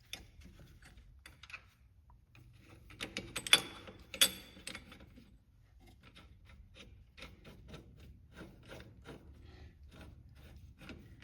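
Hand tools working a bolt-and-sleeve press on a steering rack bushing: metal clinks, with a few sharper clanks three to four seconds in, then a steady run of light clicks about three a second as the tool is turned.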